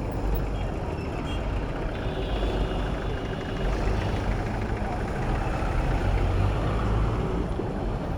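Steady city road traffic heard from a moving bicycle: a continuous low rumble of engines and tyres from trucks, buses and cars.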